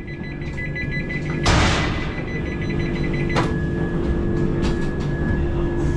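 Inside a train coach pulling slowly out of a station: a low running rumble with a steady electrical hum, and a few knocks from the wheels and coach, the loudest about one and a half seconds in.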